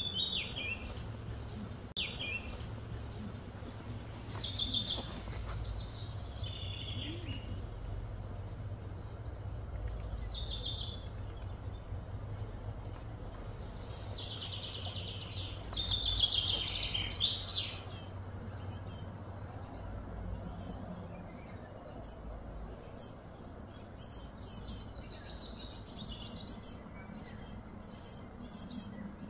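Wild birds chirping and calling in short repeated phrases, loudest in a burst of chirping around the middle, over a steady low background hum.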